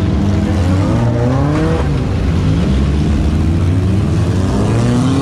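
Demolition derby cars' engines revving, their pitch rising and falling again and again over a steady low rumble.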